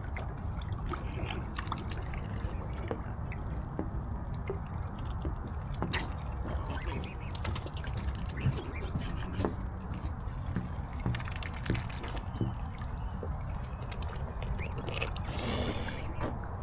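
Water splashing and dripping in small, scattered splashes as swans and cygnets move and feed on the water, over a steady low rumble.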